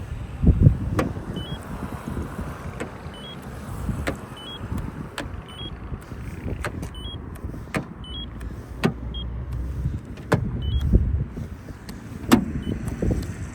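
Paint thickness gauge giving short high beeps, a dozen or so at irregular intervals, as it takes readings on a car's body panels. Sharp clicks sound as the probe meets the metal, over a low uneven rumble.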